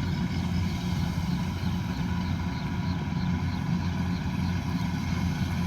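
Combine harvester's diesel engine running steadily at a constant speed, with a faint regular ticking about three times a second.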